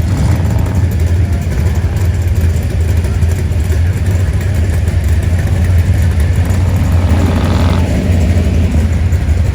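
Car engine running with a loud, steady low rumble, and a brief rising whine about seven and a half seconds in.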